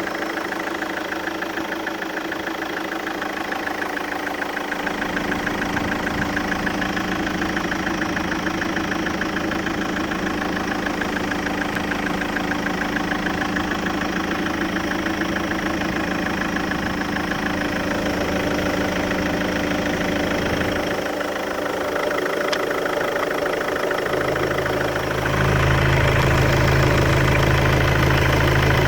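GM Daewoo Winstorm SUV's engine idling steadily. About 25 seconds in, a stronger, deeper low hum joins and the sound gets louder.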